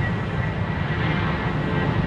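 Airbus A320 airliner's jet engines, a steady rumble heavy in the low end.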